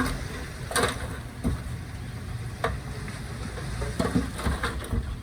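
Diesel earthmoving machinery running with a steady low rumble, broken by scattered sharp clanks and knocks about once a second.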